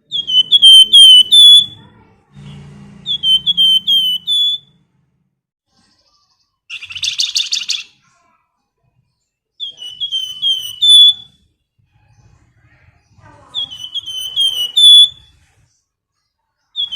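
A flamboyan songbird calling: four phrases of four or five short, sweet, slurred whistles in quick succession, with one brief rapid buzzy trill about seven seconds in.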